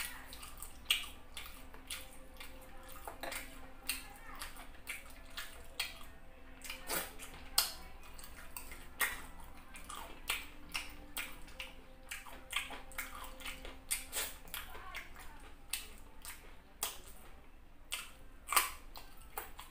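Close-miked wet chewing and lip smacking while eating soft fufu, a run of irregular clicks a few per second, with a sharper crack near the end as a raw carrot is bitten.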